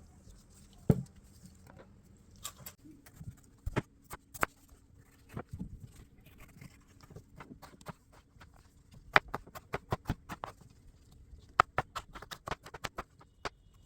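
Irregular clicks, taps and knocks of kitchen prep work, one at a time at first and in quick clusters later, over a faint steady hum that starts about three seconds in.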